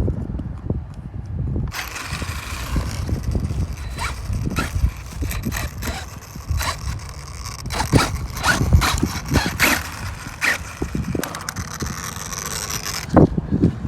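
Small electric cooling fan on an RC truck's motor or speed controller spinning with a steady high whine and hiss. It starts abruptly about two seconds in and cuts off near the end, among repeated clicks and knocks of handling.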